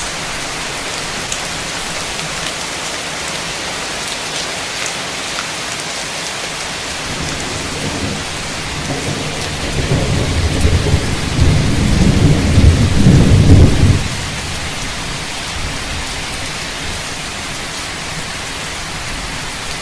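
Heavy rain falling steadily, with a roll of thunder that builds from about eight seconds in, rumbles loudest for a few seconds and cuts off near fourteen seconds.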